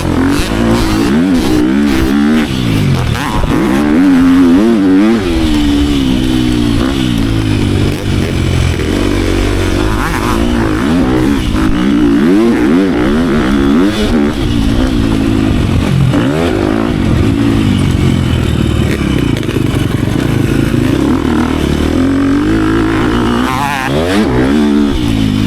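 Dirt bike engine being ridden hard, its pitch climbing and dropping again and again as the throttle is opened and closed.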